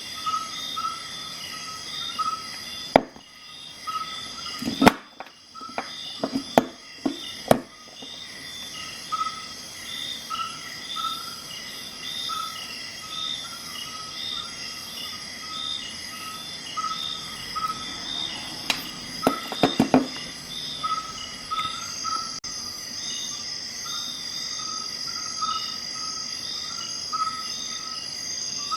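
Crickets chirping in a steady repeating rhythm over a constant high whine of insects. Sharp clicks cut through about three seconds in, in a quick cluster a few seconds later, and again as a short burst in the middle: the tools of a Swiss Army knife snapping open and shut.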